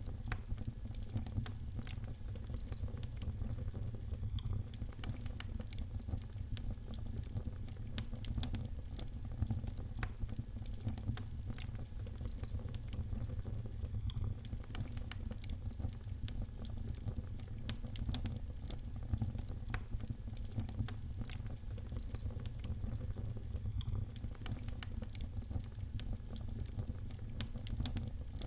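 Wood fire crackling in a fireplace: a steady low rumble of burning with frequent small snaps and pops.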